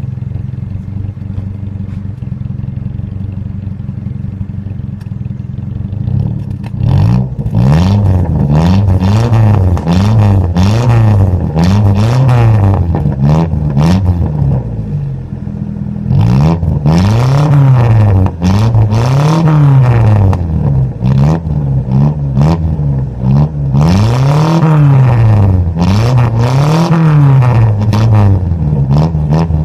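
Mitsubishi Lancer engine and exhaust idling steadily at first, then revved up and down over and over from about seven seconds in. Each rev rises and falls in pitch, one every second or two, with a short lull about halfway through.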